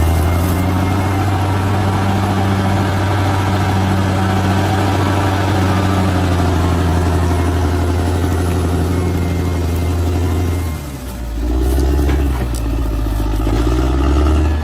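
Large bulldozer's diesel engine running steadily at one pitch. About eleven seconds in it dips briefly, then runs on at a lower, wavering note with a couple of sharp knocks.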